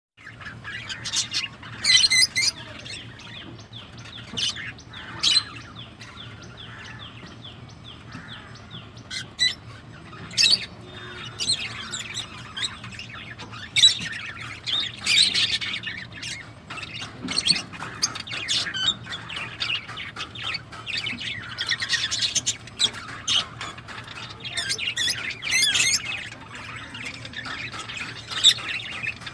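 A flock of small pet parrots chattering, with rapid chirps and repeated loud, harsh squawks, over a faint steady low hum.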